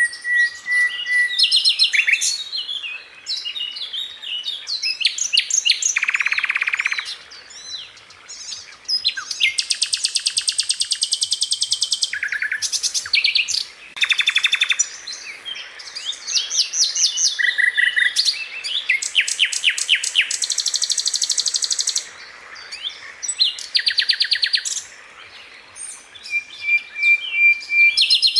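Sikatan londo flycatcher singing a fast, varied song of rattling trills, rolling repeated phrases and short whistled notes, with brief pauses between phrases.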